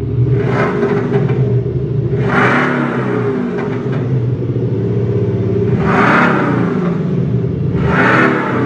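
Audi Q5 45 TFSI petrol engine, its sound boosted by an Atarius ASR active engine-sound module, revved repeatedly. The engine note rises and falls in pitch with four rev peaks: a short one near the start, then at about a quarter of the way, two-thirds of the way and near the end.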